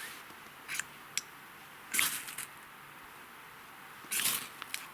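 A ferro rod struck to throw sparks for a fire: a few short, sharp scraping strokes, the loudest about two seconds in and a longer one just after four seconds.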